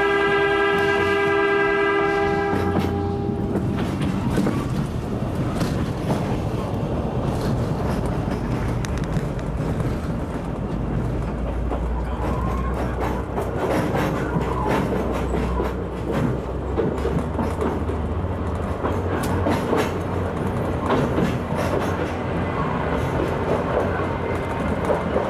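Oigawa Railway Ikawa Line train sounding its horn, one steady note held for about three seconds. The train then runs on with a steady low rumble, its wheels clicking over the rail joints.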